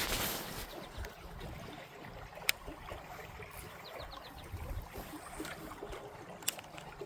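Faint running creek water, with two sharp clicks, one about two and a half seconds in and one near the end.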